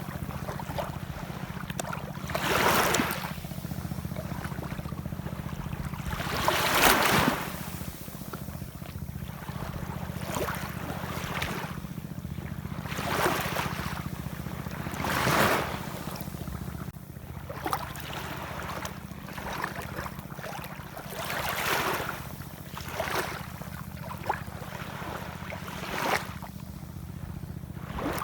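Ocean waves breaking and washing ashore, each surge of surf rising and falling away every few seconds over a steady low rumble of the sea.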